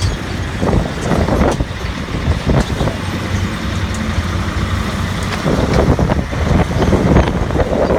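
Engine of a tourist road train running steadily, with louder irregular surges of noise over a low hum.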